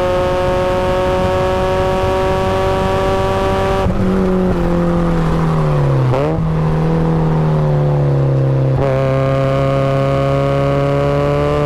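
Supercharged Mazda Miata's four-cylinder engine under load, its pitch climbing steadily. About four seconds in the driver lifts off and the revs fall. There is a quick dip and jump in revs about two seconds later, then the engine runs lower and steady before the pitch climbs again as it goes back on the throttle.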